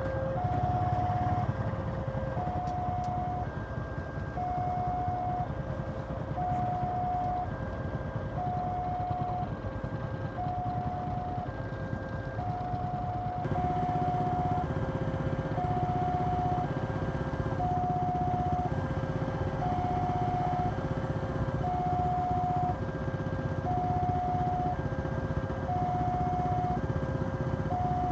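Railway level-crossing warning alarm sounding an even two-tone chime, repeating about every second and a half, over a steady low rumble of engines. The rumble grows louder about halfway through.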